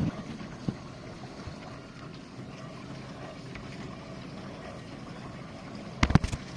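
GE dishwasher running mid-cycle: a steady hum with a rushing wash-water noise. About six seconds in, a quick cluster of sharp knocks.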